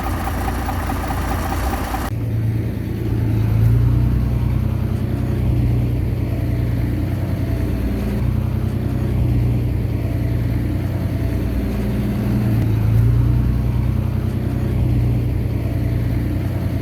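Heavy diesel engine of earthmoving machinery running under working load, its low drone swelling and easing every few seconds. The sound changes abruptly about two seconds in.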